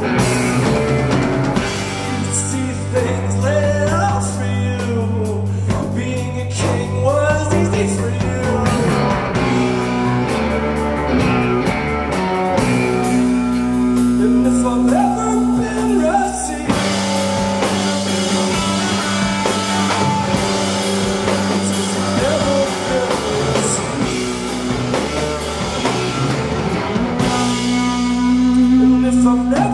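Live rock band playing a song with drums and guitar, a voice singing over it.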